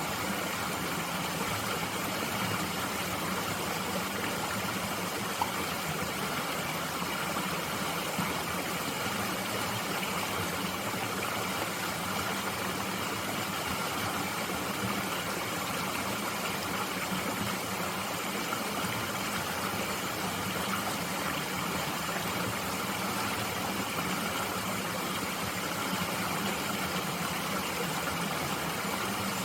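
Mountain stream flowing steadily, an even rushing of water.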